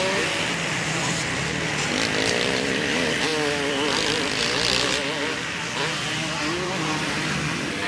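Two-stroke motocross bikes racing, their engines revving up and down.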